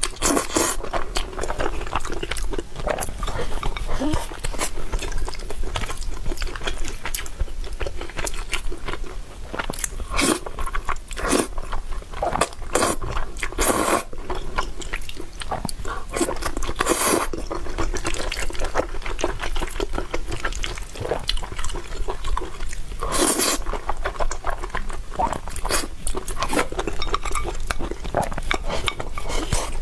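A person eating noodles: steady chewing with a dense run of short wet clicks and smacks, and a few longer slurps.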